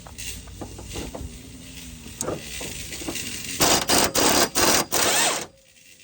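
Pneumatic impact wrench hammering in four short bursts on an engine-mount fastener, stopping suddenly as the fastener comes off. Before that there are a few light clicks and knocks of tool handling.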